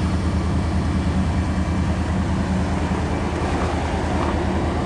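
1992 Chevrolet Caprice wagon's V8 idling steadily while it warms up after a cold start in deep cold, a fast, even low pulsing from the exhaust.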